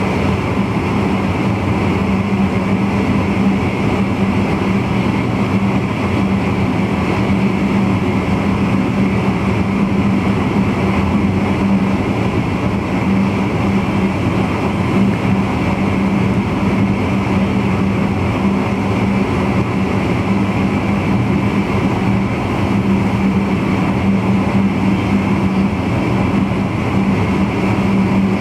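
Steady running noise in the driver's cab of a VIRM double-deck electric intercity train on the move, with a constant low hum.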